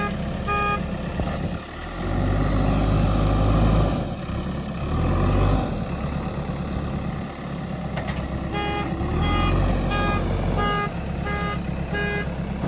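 Diesel engine of a JCB 3DX backhoe loader working, its revs rising and falling as it takes load. A reversing alarm beeps just after the start and again in a steady string of beeps, about two a second, through the second half.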